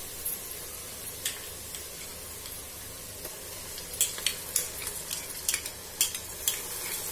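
Sliced onions sizzling steadily in hot oil in a pressure cooker while ginger-garlic paste is scraped in with a metal spoon. A scattering of light clicks and taps of the spoon against the pot, more of them in the second half.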